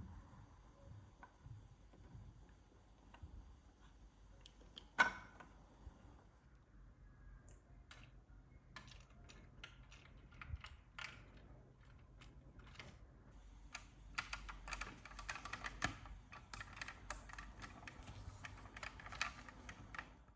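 Faint clicks and taps of small model-car parts being handled and fitted, with one sharper click about five seconds in and a dense run of rapid clicking over the last six seconds.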